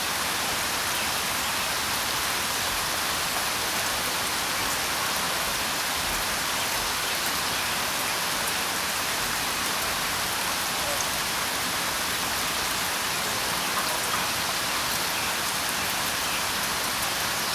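Steady rain falling, a dense, even hiss of many drops with no change in strength.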